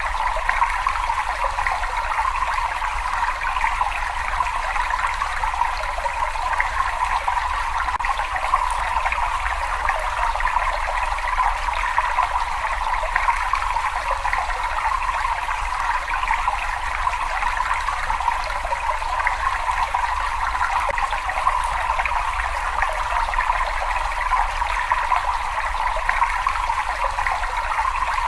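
Water running steadily in a cave, an even, unbroken flow with no change in level.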